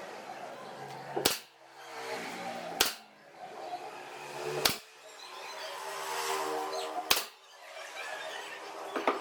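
Workshop tool sounds: four sharp knocks about two seconds apart, separated by stretches of a steady pitched hum.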